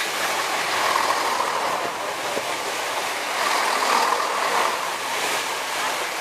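Chiltern Railways Class 168 diesel multiple unit passing at speed close by: a steady rush of wheels on rail and underfloor diesel engines, swelling and easing slightly as the carriages go by.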